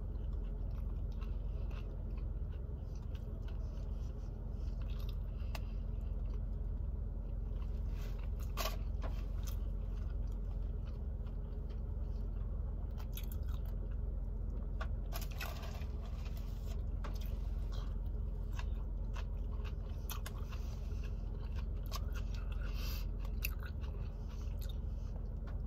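Close-up chewing of a person eating a soft sub sandwich, a vegan turkey club, with wet mouth clicks scattered throughout over a steady low hum.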